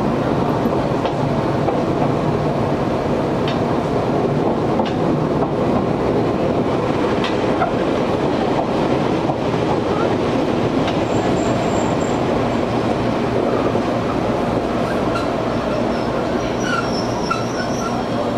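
Izuhakone Railway 1300 series electric train running steadily, heard from inside the car: wheel and track rumble with strong air conditioning, scattered clicks and clanks from the rail joints and the clattering gangway plates, and a couple of brief faint high squeals near the middle and the end.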